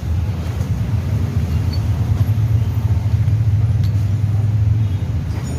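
Low, steady rumble of a motor vehicle engine, growing louder a couple of seconds in and easing off near the end.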